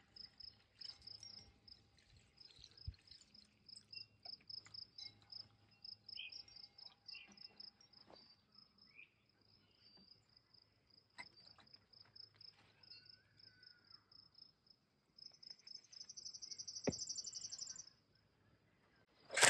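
Crickets chirping in steady, rapid high-pitched pulses, with a few short bird calls in the middle. Near the end a louder buzzing trill runs for a couple of seconds.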